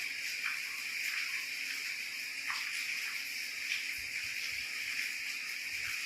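Steady rain falling: a constant even hiss, with a few short, sharper sounds scattered through it.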